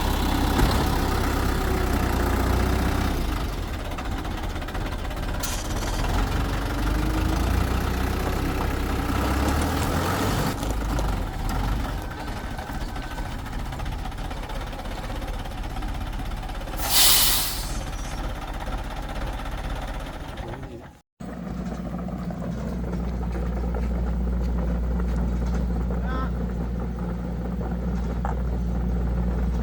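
An engine running steadily, with a short loud hiss a little past the middle. The sound breaks off abruptly about two thirds of the way through and picks up again as a steadier low hum.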